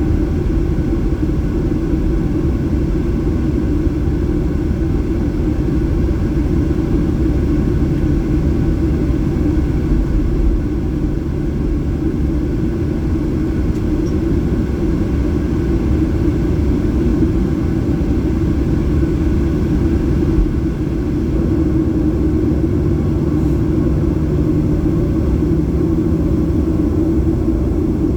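Boeing 737-800's CFM56 jet engines and airflow heard from inside the passenger cabin: a loud, steady, deep rumble with a faint hum running through it, as the airliner takes off or climbs out.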